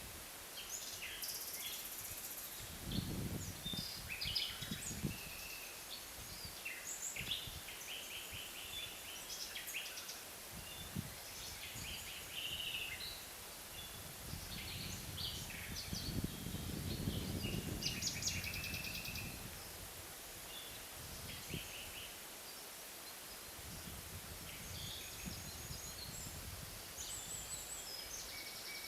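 Forest ambience: several small birds chirping and trilling on and off throughout, with a low rumble of wind swelling twice, a few seconds in and again in the middle.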